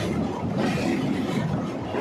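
Steady rumbling noise of an Indian Railways express train in motion, heard from inside a passenger coach.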